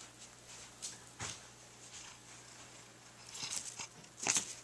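Cat chewing grass: a few scattered crunches and clicks, the loudest near the end.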